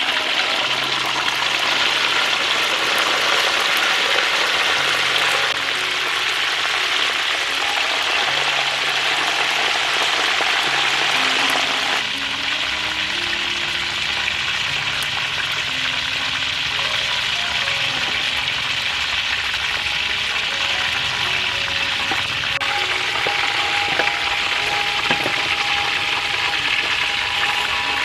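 Food frying in hot oil, a steady crackling sizzle throughout, with background music playing underneath.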